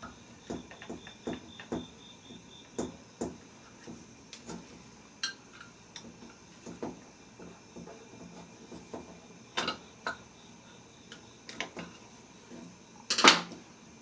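Small metal engine parts and hand tools being handled on a workbench: irregular light knocks and clinks, with a louder metallic clatter near the end.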